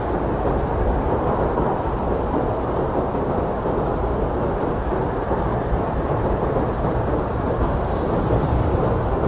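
Blizzard wind blowing steadily: a dense, even rushing noise with a deep low rumble and no clear gusts or breaks.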